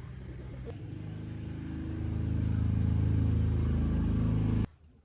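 Tractor engine running, growing louder over the first two seconds and then running steadily, before stopping abruptly near the end.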